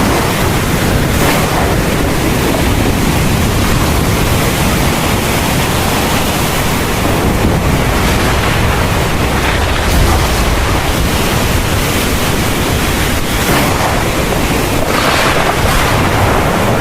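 Heavy thunderstorm rain falling steadily, a dense even hiss with a low rumble underneath.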